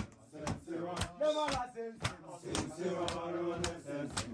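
Voices singing a Swahili song over a steady percussive beat of about two to three strikes a second.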